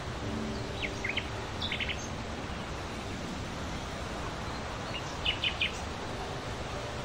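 Short, high chirps from small songbirds in two quick clusters: one about a second in and one at about five and a half seconds. Both sit over a steady background hiss.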